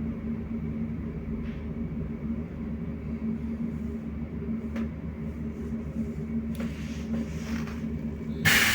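Inside a BKM-43300D trolleybus: a steady low hum of the vehicle with a few faint ticks. Near the end a sudden loud hiss starts.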